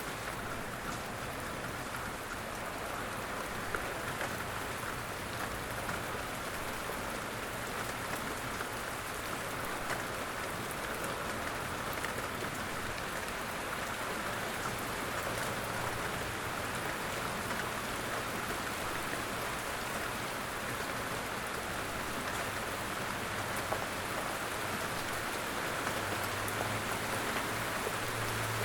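Steady light rain falling, with scattered sharper drops. A low rumble grows louder near the end.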